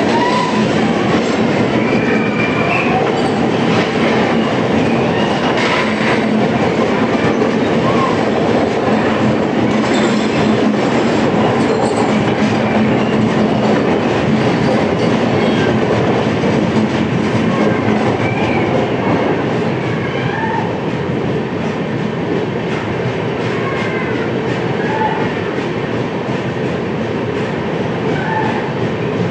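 Express passenger train running on the track: a steady rumble with the clickety-clack of wheels over rail joints and scattered short high squeaks, a little quieter after about 19 seconds.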